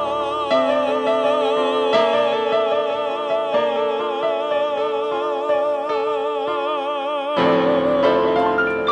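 A male singer holds the final word "love" of the song as one long note with wide vibrato for about seven seconds over sustained piano chords. Near the end the held note gives way to louder closing chords on the piano.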